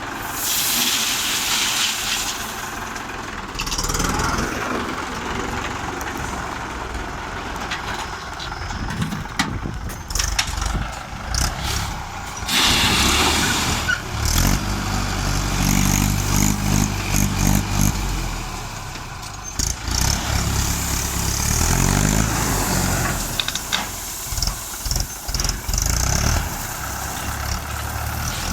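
Mahindra 475 DI tractor's diesel engine working under load while a front bull blade pushes soil, its revs rising twice in the middle part and easing off between. Short bursts of hiss come and go over the engine.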